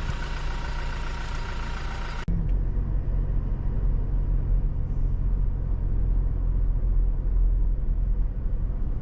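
A car driving, with a steady low rumble of engine and road noise. About two seconds in it cuts abruptly to a heavier, more muffled rumble.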